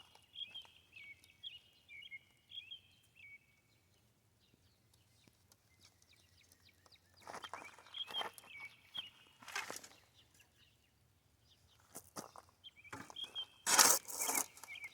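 Small birds chirping in the first few seconds and again later, with bursts of scraping and rustling about seven seconds in and near the end, the loudest just before the end.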